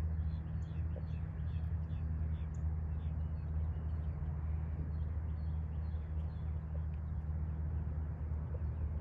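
Birds chirping faintly in short, scattered calls over a steady low rumble.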